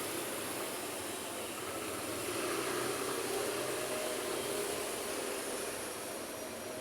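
Busy city street traffic: a steady rush of engines and tyres from passing vehicles, swelling slightly about two seconds in as a vehicle goes by.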